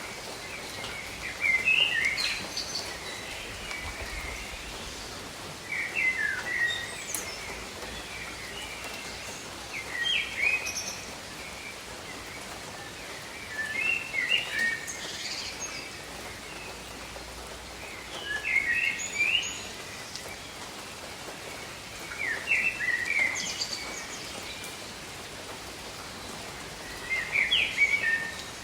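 Steady rain falling, with a songbird repeating the same short chirping phrase about every four seconds.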